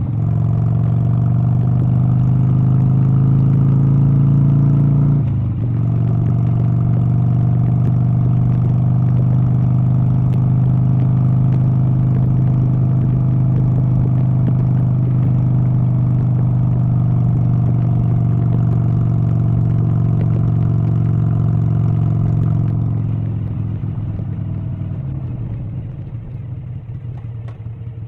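A vehicle engine running steadily under load, its pitch rising slowly. There is a brief dip about five seconds in, and near the end the pitch drops and the sound fades.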